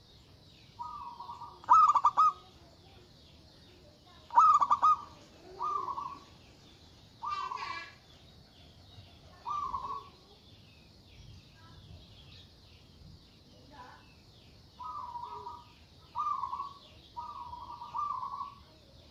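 Zebra dove (local perkutut) cooing: short phrases of soft rolling coos, repeated every second or two with a quieter gap midway. There is a faint steady high hiss behind.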